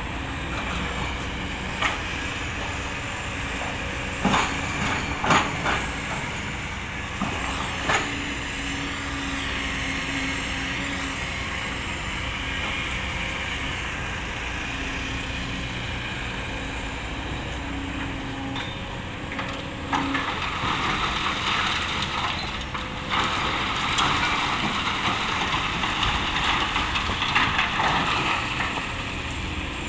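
Kobelco SK200 hydraulic excavator working, its diesel engine running steadily, with a few sharp knocks in the first eight seconds and a louder hissing, rushing spell over the last ten seconds.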